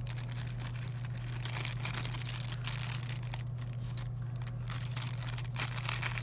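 Packaging being handled, crinkling and rustling in irregular bursts, over a steady low electrical hum.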